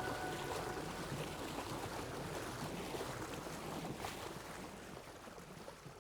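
Sea water washing and splashing, an even hiss with a low rumble under it, slowly fading away near the end. The last held chord of music dies out in the first half second.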